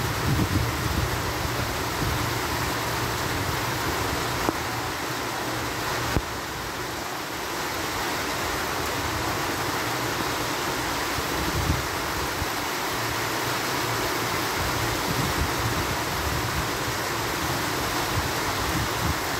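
Heavy rain falling steadily, a constant even hiss, with a low fluttering rumble of wind on the microphone underneath.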